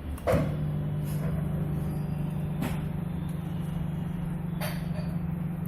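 Kenstar microwave oven switching on with a click and then running with a steady low mains hum, fitted with a replacement LG 214 magnetron on a test run.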